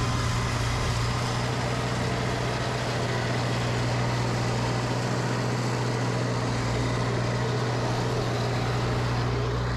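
Engine running steadily at a constant speed, a strong low hum that holds the same pitch throughout.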